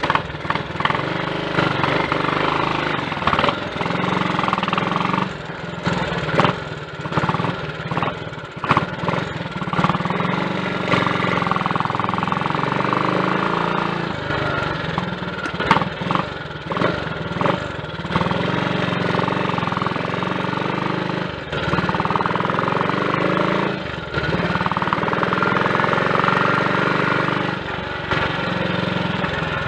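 Triumph Tiger Cub's single-cylinder four-stroke engine running on half choke while warming up from a cold start, its carburettor newly fitted with a weaker slide, needle and jets. Its note shifts several times, with scattered short knocks.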